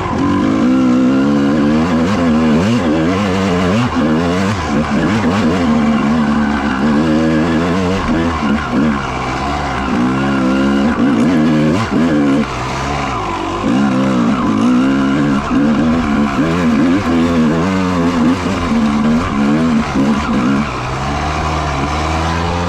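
Honda CR250 two-stroke dirt bike engine ridden hard off-road, revving up and down over and over as the throttle is worked, settling to a steadier, lower note near the end.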